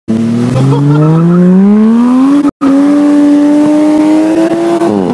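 Toyota Chaser Tourer V's turbocharged straight-six accelerating hard through a large-bore exhaust. The engine note climbs steadily for about two and a half seconds, holds high for two more, then drops near the end.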